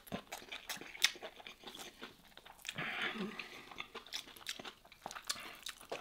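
Close-miked chewing and mouth sounds of someone eating rice and roast lamb: soft wet smacks and small clicks, with a brief denser stretch about three seconds in.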